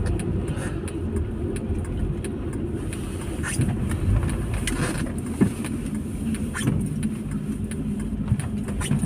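Steady low rumble of a car heard from inside the cabin, with a few short clicks and knocks.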